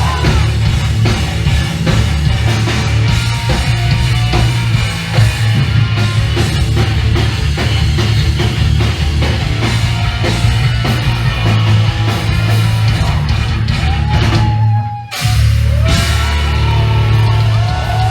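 Loud live hardcore punk band playing: distorted guitars, bass and drums, recorded from the crowd. The music drops out for a moment near the end, then comes straight back in.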